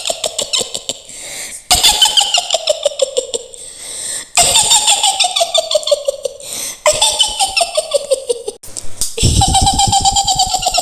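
Mak Lampir's high cackling witch laugh, repeated: each cackle is a fast string of short laughs whose pitch falls steadily over about two seconds, with short breaks between them.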